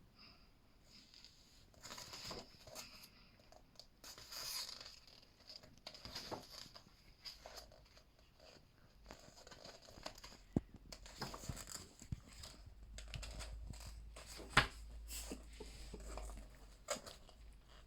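Pages of a paper book being turned and handled: irregular paper rustles and soft clicks, with one sharper click about three-quarters of the way through.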